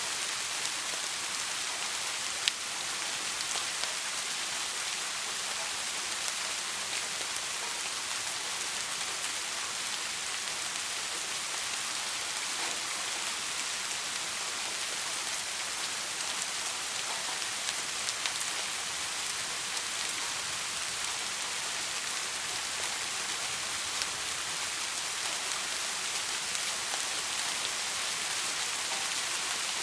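Steady soft rain: an even hiss of falling rain with scattered drops ticking on a surface, one sharper drop about two and a half seconds in.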